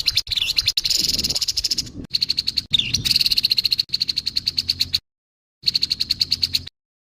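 Grey-headed babbler giving harsh, fast rattling calls: rapid repeated notes, high-pitched, breaking off about five seconds in and resuming briefly before stopping abruptly.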